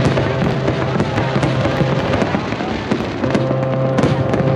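Aerial fireworks shells bursting and crackling in quick, overlapping succession. Under the bangs runs a steady held tone that drops out for about a second midway.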